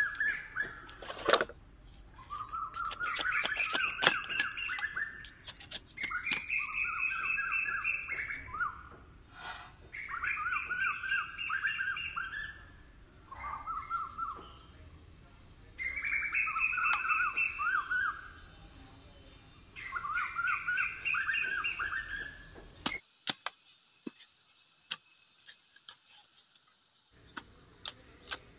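A songbird repeats a phrase of quick whistled notes that sweep up and down, six times, each phrase about two seconds long and a few seconds apart, over a steady high insect drone. Sharp clicks and snaps are scattered throughout, more of them near the end.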